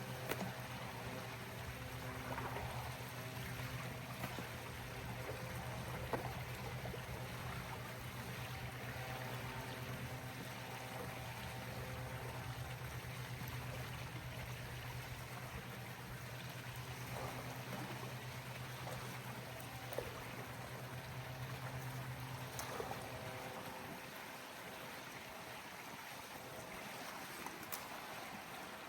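Water running and trickling over a steady low motor hum; the hum cuts out about 23 seconds in, leaving the water sound and a few small knocks.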